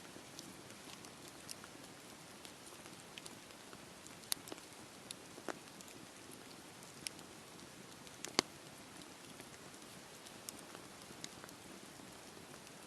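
Wood fire crackling in a fireplace: a soft, steady hiss with scattered sharp pops and snaps, the loudest pop about eight seconds in.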